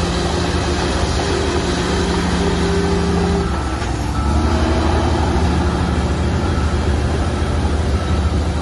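Shantui bulldozer's diesel engine running. Its note dips and wavers about three and a half seconds in, then settles back to a steady tone.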